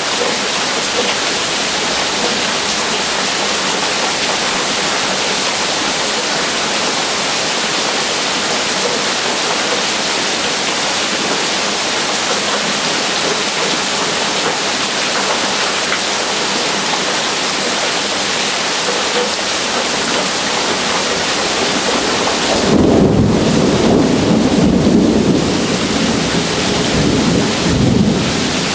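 Heavy rain falling in a steady hiss. About 22 seconds in, a low rolling rumble of thunder swells up and carries on for five or six seconds before dying away.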